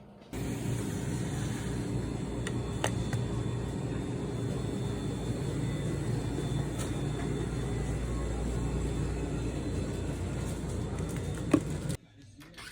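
Steady low rumbling noise that cuts in and out abruptly, with a few faint clicks and one sharper tick near the end.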